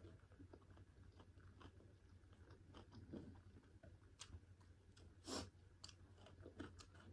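Faint close-miked chewing and mouth sounds of someone eating pork curry with rice: small wet clicks and smacks, with one louder smack about five seconds in.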